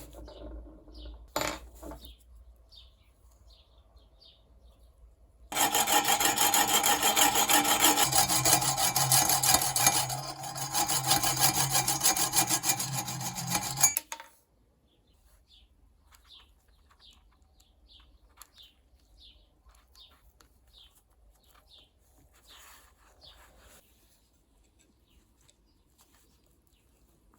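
Loud continuous abrasive rasping, as of sanding or filing on the knife. It starts suddenly about five seconds in and stops abruptly about eight seconds later, with a low steady hum joining in partway through. Faint light scratching ticks come before and after it.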